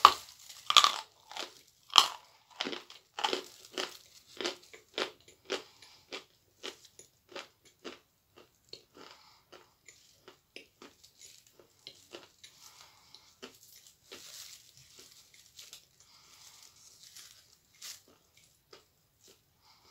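A bite into a block of edible chalk with a loud crunch, then another bite about two seconds in. Crunchy chewing follows, a chew every half second or so, growing softer through the second half.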